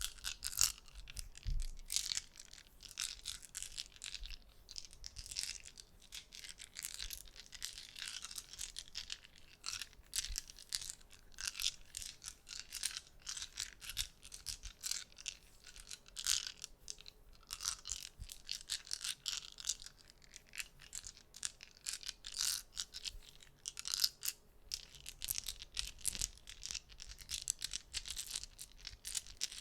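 Soft, rapid clicking made by hand with small objects, many irregular clicks in quick flurries with brief lulls.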